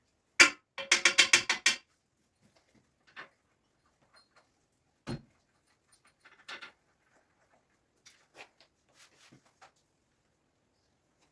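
Metal tools and parts clanking during workshop work: a sharp metal knock, then a quick run of about eight ringing metallic strikes, followed by scattered clinks and a dull knock.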